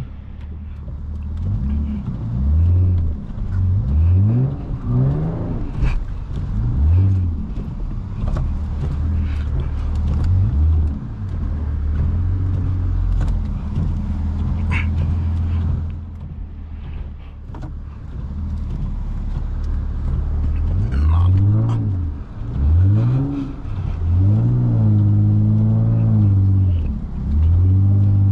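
Lexus IS250's 2.5-litre V6 revving up and down again and again in quick blips as the car loses traction on snow, with a steadier stretch of running in the middle.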